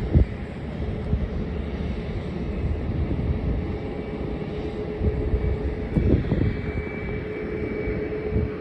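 Jet aircraft engine noise at an airport, with a steady whine setting in about halfway through, over the low rumble of wind buffeting the microphone.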